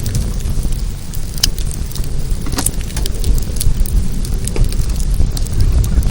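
Wood fire crackling, with scattered sharp pops, notably about one and a half and two and a half seconds in, over a steady low rumble.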